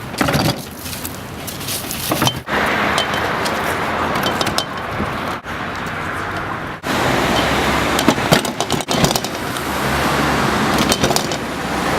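Street traffic: the noise of cars going past, with scattered light clicks and knocks. It breaks off abruptly several times.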